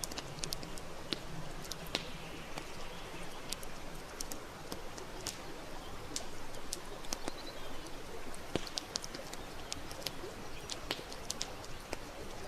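Campfire wood crackling, with frequent sharp pops scattered irregularly through, over a steady rush of river water. A faint low tone sounds during the first few seconds.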